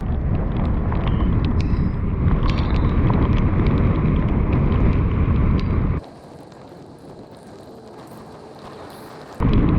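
Storm wind blasting the microphone in a heavy low rumble, which drops suddenly to a quieter rush of wind about six seconds in and returns at full strength near the end.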